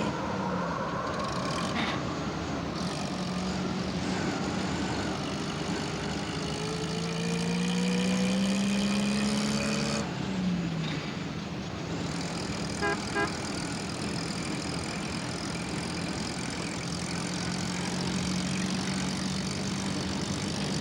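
Small van engine running as it drives, its pitch rising slowly and dropping back twice, over a steady rush of wind. Two short horn toots come about thirteen seconds in.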